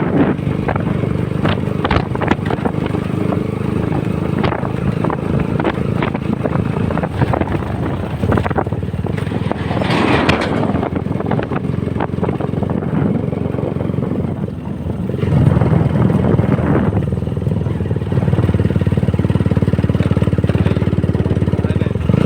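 Honda CBR150R's single-cylinder engine running on the move, with scattered knocks. The engine gets louder about two-thirds of the way through.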